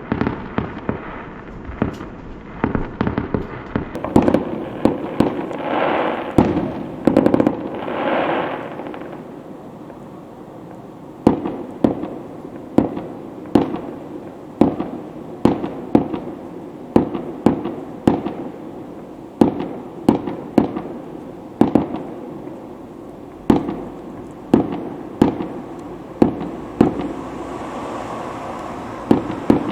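Fireworks going off: a dense stretch of crackling bursts in the first third, then a steady run of sharp bangs, a little more than one a second.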